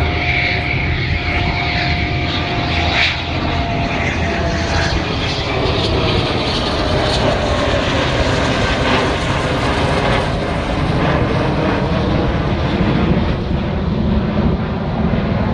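Aircraft engines running loud and steady. A steady whine sits over the roar until about five seconds in.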